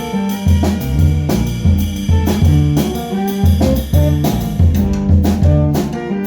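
Jazz band playing, with drums and a bass line that steps from note to note about twice a second under a melody line.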